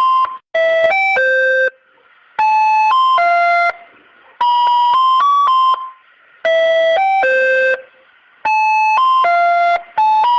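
Wall's ice cream vendor cart jingle: a short electronic chime melody played over and over, each phrase about a second and a half long with a brief pause between repeats.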